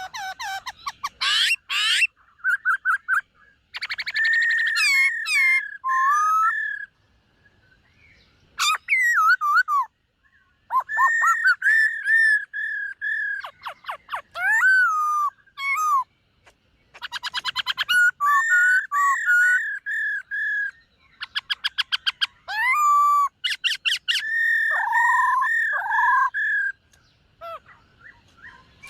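Black-throated laughingthrush singing: bouts of clear whistled notes repeated on one pitch, mixed with rapid trills and falling slurred notes, separated by pauses of a second or two.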